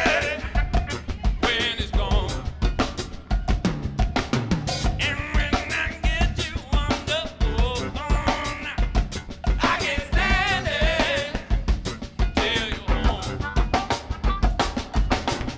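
Funk band playing: a busy drum kit with steady kick and snare hits drives the groove, while pitched melodic lines with vibrato rise and fall over it every couple of seconds.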